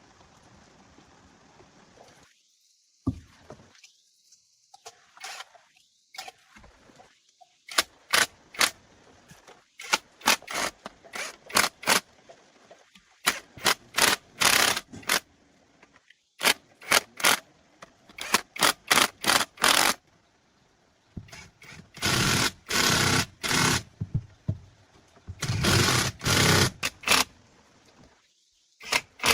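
Repair work on a car: a fast, irregular run of sharp knocks and clatter from tools on the car, with two longer harsh noisy stretches near the end.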